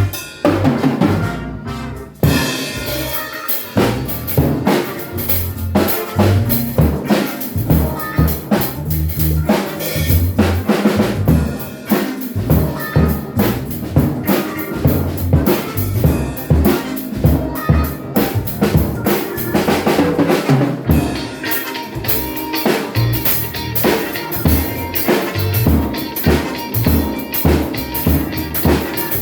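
ADW Astro 5 drum kit being played in a continuous groove of bass drum, snare and rimshot hits with cymbals, as music.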